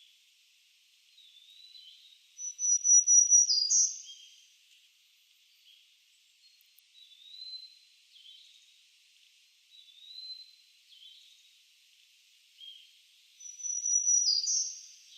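A songbird singing two songs, about a second and a half each, near the start and near the end: each opens with a rapid high trill and breaks into a jumble of lower notes. Softer short slurred chirps fall between the two songs.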